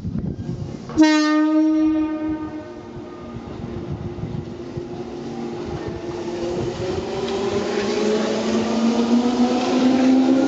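Tobu 10030 series electric train sounding its horn once, about a second in, for about a second and a half: a warning to track maintenance workers. It then pulls away, its motors whining with a slowly rising pitch and growing louder as it gathers speed.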